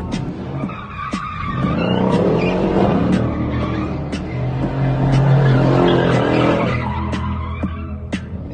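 Car engine revving, its pitch rising and falling, with tyres skidding on the road, as in drifting.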